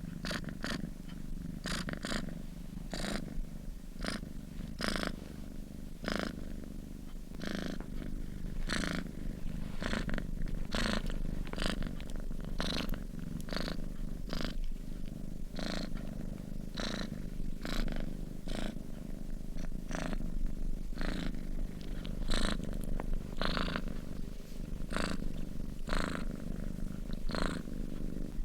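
A sleeping domestic cat purring steadily: a continuous low rumble with a breathy rasp on each breath in and out, repeating evenly about once or twice a second.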